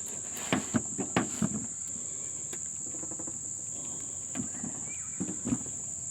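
Small clicks and knocks from brake caliper parts being handled during piston fitting, in a cluster about half a second to a second and a half in and another around five seconds, over a steady high-pitched cricket trill.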